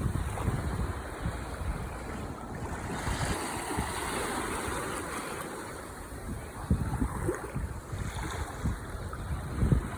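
Ocean waves washing onto the shore in a steady rush of surf, with gusts of wind buffeting the microphone in irregular low thumps.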